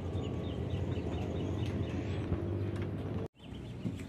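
A small bird chirping a quick run of short high notes, about five a second, over a steady low outdoor rumble. The sound breaks off abruptly about three seconds in.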